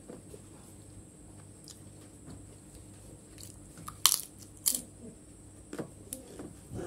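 Eating by mouth: two loud sharp crunches about four and five seconds in as a bite of krupuk cracker is crushed, then quieter chewing clicks. The cracker is a little stale and soft ('agak melempem').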